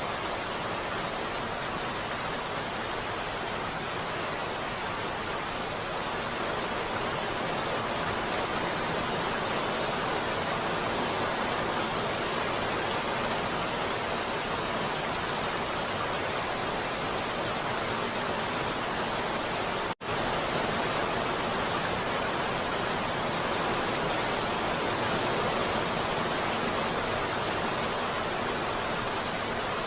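Heavy rain falling steadily, an even hiss with no single drops standing out. About two-thirds of the way through it cuts out for an instant and comes straight back.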